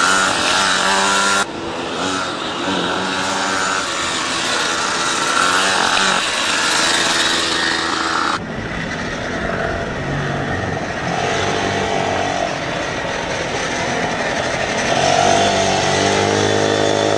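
Small pocket-bike racing engines revving up and down, buzzing as the bikes accelerate and brake through the corners. The sound changes abruptly twice, about a second and a half in and again past eight seconds.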